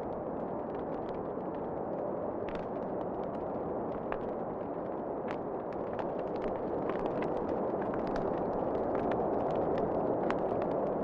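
Wood fire crackling, with irregular sharp pops and snaps over a steady low rushing noise that grows slightly louder toward the end.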